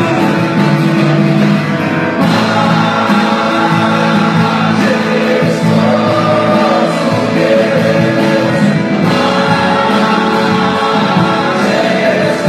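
Live worship music: a band playing with voices singing, loud and steady throughout.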